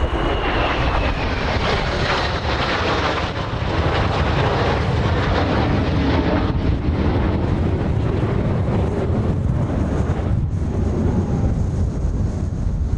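Kawasaki T-4 jet trainers flying past, a loud jet rush with a high turbofan whine that falls in pitch early on as they go by, then a steadier engine noise. Heavy wind rumble on the microphone underlies it.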